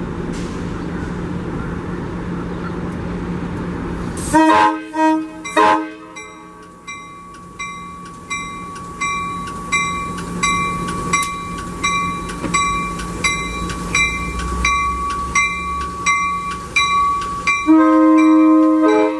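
Train running with a steady rumble, then three short locomotive horn blasts. A bell follows, ringing steadily about one and a half times a second, and near the end the horn sounds again in one long blast.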